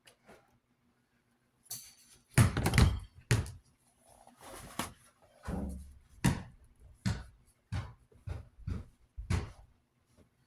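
Irregular knocks, clicks and thunks from hands working on a disassembled desk fan's metal parts, loudest about two to three seconds in, then a run of taps roughly one or two a second, over a faint steady hum.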